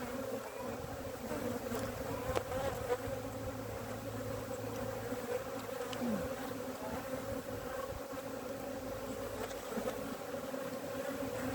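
Honeybee colony buzzing steadily in a hum of many wingbeats around an opened hive as the bees settle after an inspection.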